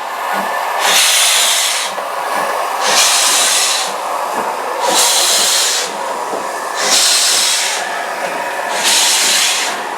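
Steam locomotive giving off regular bursts of hissing steam, one about every two seconds, at an even pace throughout.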